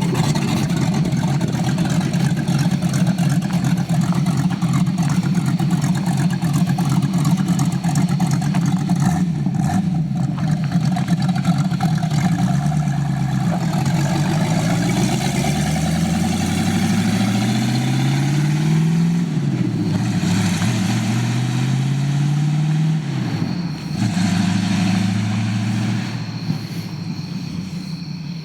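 Ford Mustang engine running loud through new open headers with no exhaust, at first steady, then revved up and let fall back several times before settling again.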